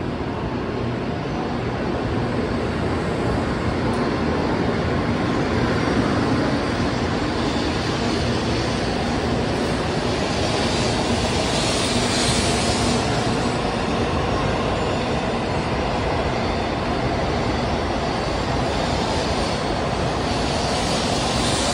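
N700-series Shinkansen pulling out of the station, its cars rolling past at low speed as it gathers pace: a steady rushing rumble that grows slightly louder. A hissing swell comes about halfway through and again near the end.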